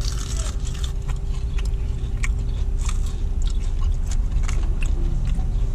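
Close-up crunching and chewing of crispy, broasted fried chicken wings as they are bitten into: a string of short, sharp crunches over a steady low hum.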